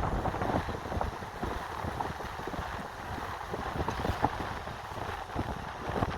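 Wind buffeting the microphone in a steady low rumble, over the rush and splash of water moving past a windsurf board.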